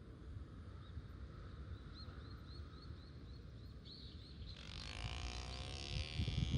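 A row of faint, quick high chirps, about four a second, the unexplained noise heard in the wall. Shortly before the end a louder rushing noise comes in, followed by a few low thumps.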